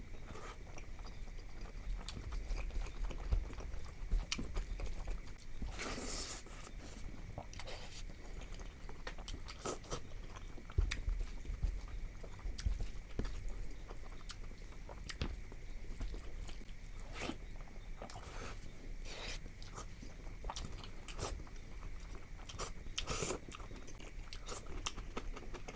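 Close-miked chewing and biting of rice and curry, with wet mouth clicks throughout and a few sharper, louder bites scattered through it.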